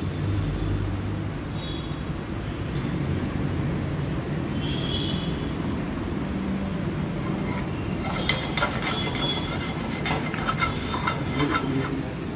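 Yellow pea tikkis shallow frying in oil in a nonstick pan: a steady sizzle over a low rumble, with a run of sharp crackles and pops from spattering oil starting about eight seconds in.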